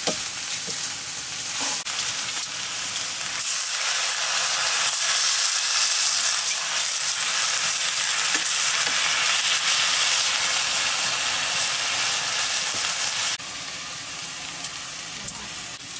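Chopped leafy greens sizzling as they stir-fry in a black iron wok over a wood fire. The sizzle is a steady hiss that grows louder a few seconds in and drops suddenly to a lower level near the end.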